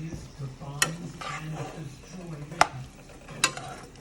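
Food sizzling in a pan as it is stirred, with a utensil striking the pan three sharp times.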